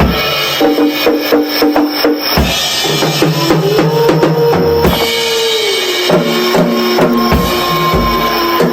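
Drum kit played as a solo, with bass drum, snare and cymbal strokes coming fast over several held background tones.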